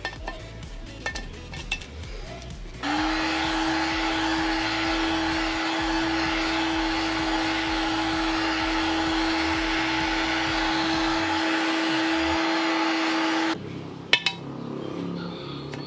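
Heat gun blowing steadily for about ten seconds, switching on about three seconds in and cutting off near the end, heating the engine crankcase so a bearing can be fitted. A sharp metallic click follows shortly after it stops.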